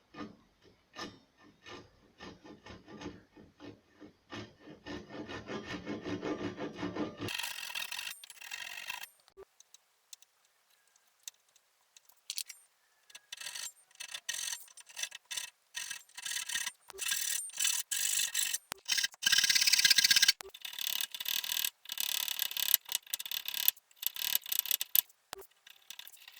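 Hand tools working wood: a run of quick, even strokes for about seven seconds, then, after a short lull, irregular bursts of rasping and scraping strokes on the wood.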